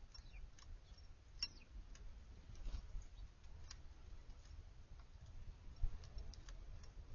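Faint, scattered short high chips and ticks from small backyard birds, a dozen or so spread irregularly, over a steady low rumble.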